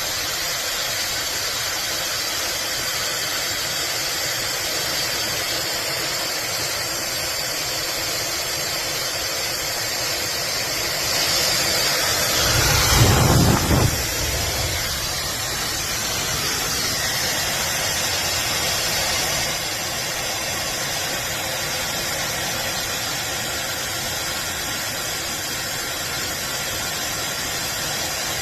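JITOOW high-speed hair dryer blowing steadily, a constant rush of air with a faint high whine. For a few seconds about halfway through it grows louder with a deep rumble, as the airflow hits the microphone.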